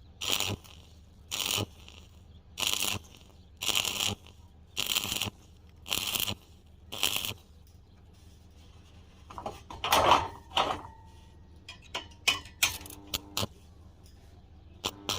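Rhythmic hand-tool scraping strokes on metal, about one a second, like a file or wire brush worked over iron. About ten seconds in there is a louder metal clank with a brief ringing tone, then a few light taps.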